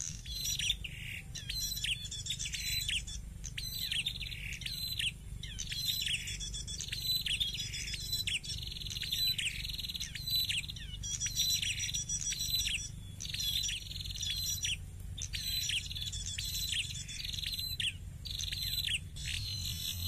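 A prenjak (small warbler) calling over and over: a fast series of sharp chirps, each sliding down in pitch, at about two a second.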